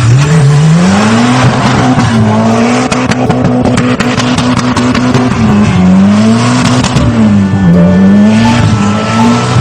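A car engine revving up: its note climbs quickly near the start, then holds high with two brief drops in pitch.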